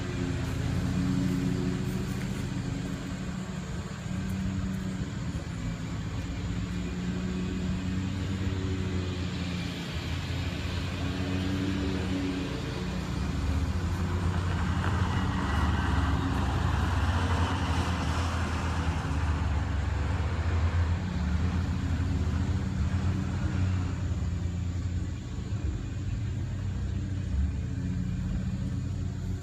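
A motor vehicle engine running steadily with a low rumble. Partway through, a broad hiss swells and fades for several seconds.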